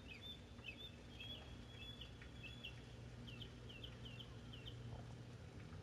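Faint birdsong: a bird gives a run of short, high chirps in the first couple of seconds, then five more quick notes around the middle, over a low steady hum and faint background hiss.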